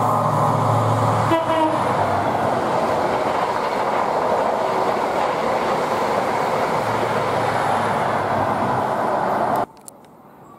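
An LNER HST (Class 43 InterCity 125) passing at speed: the diesel power car's engine drones on a steady pitched note, a short horn toot sounds about a second and a half in, then the loud rush and rumble of the coaches going by. The sound cuts off suddenly near the end.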